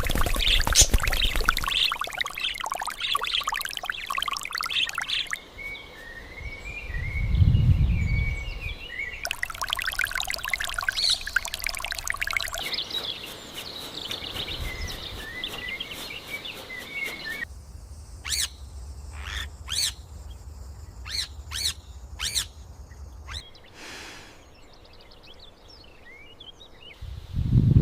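Water pouring and splashing, with birds singing, then a run of sharp clicks or knocks near the end.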